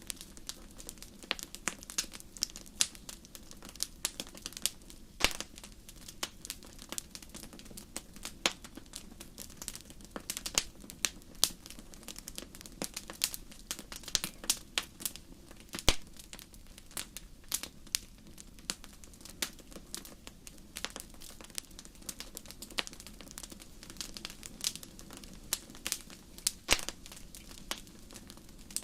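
Wood fire in a fireplace crackling, with many irregular sharp pops and snaps over a soft steady rush of flame.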